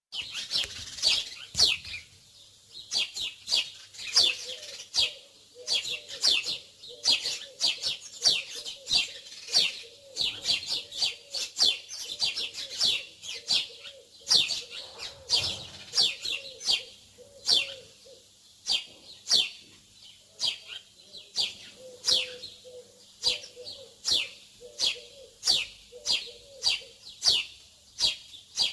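Small songbirds chirping over and over: short, sharply falling high chirps, about one or two a second. A lower, softer repeated call sounds beneath them for much of the time.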